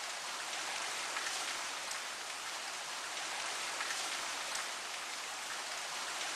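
Steady rain falling, an even hiss with a few brighter drops now and then.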